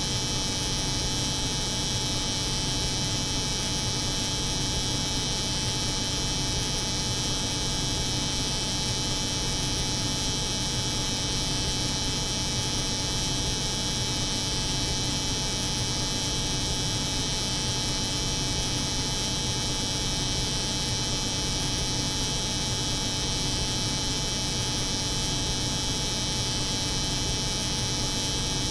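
A hair clipper buzzing layered over the hum of a cold room's refrigeration unit, one steady, unchanging drone with a high hiss and a thin constant tone.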